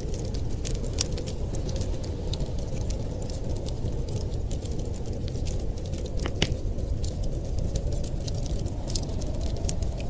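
Wood fire crackling, with frequent small pops and one sharper pop about six seconds in, over a steady low rumble.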